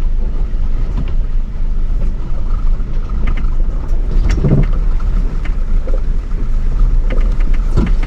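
Ford Bronco driving slowly on a rough, muddy off-road trail toward a mud hole, its engine and drivetrain rumbling steadily. A few sharp knocks come through, about halfway and again near the end.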